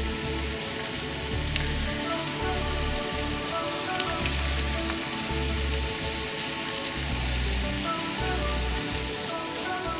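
Chopped onion and cherry tomatoes sizzling in hot oil in a wok, a steady frying hiss.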